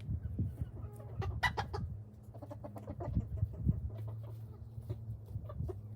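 Domestic chickens clucking, with a cluster of short, sharp clucks about one and a half seconds in and scattered softer clucks after. A steady low hum runs underneath.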